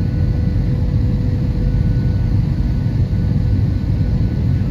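Jet airliner cabin noise: a steady low rumble of engines and airflow with a faint steady whine.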